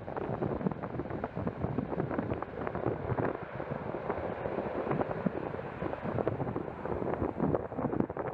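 Wind buffeting the microphone: a steady rough rumble with rapid fluttering gusts.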